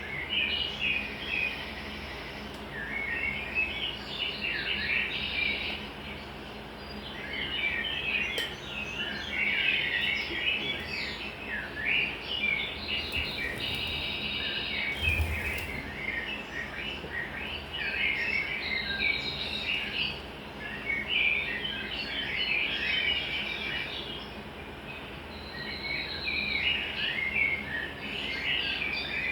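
Many small birds chirping and twittering at once, a continuous overlapping chorus of short calls. A single soft thump comes about halfway through.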